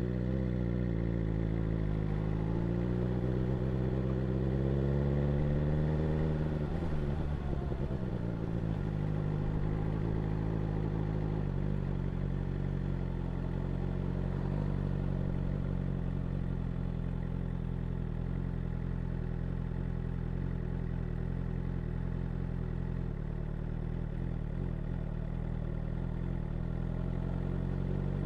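2022 BMW S1000R's inline-four engine rising steadily in pitch for about five seconds, then dropping away about six seconds in and settling to a steady low note for the rest of the time.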